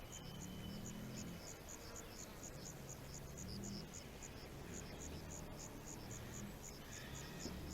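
Cricket chirping in a steady, even rhythm of about three to four high chirps a second, over a faint low rumble.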